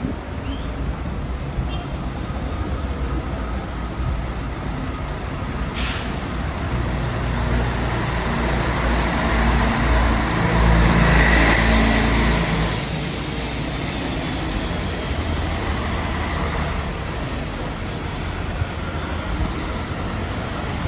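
Street traffic: a motor vehicle's engine rumbles close by, growing louder to a peak about halfway through and then easing off as it passes. A single sharp click sounds about six seconds in.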